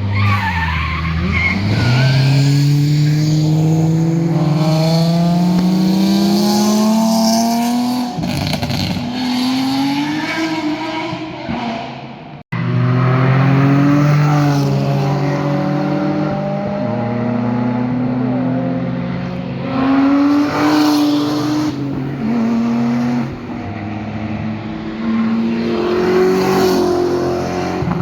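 Performance car engines accelerating hard past on a mountain road. One car's exhaust note climbs steadily through the gears for several seconds; after an abrupt cut about halfway through, another car is heard accelerating, its pitch rising and dropping at several gear changes.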